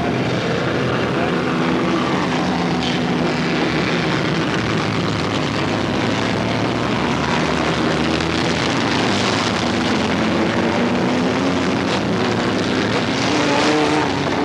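Several pure stock race car engines running together at caution pace, their pitches slowly rising and falling as the cars go around the track under the yellow flag.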